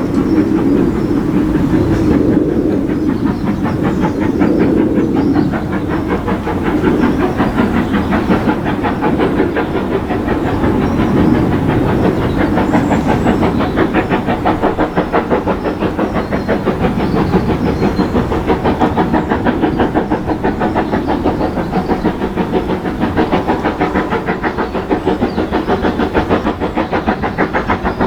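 Steam-hauled train running past, with a steady, fast rhythmic beat of wheels on rail and hiss of steam.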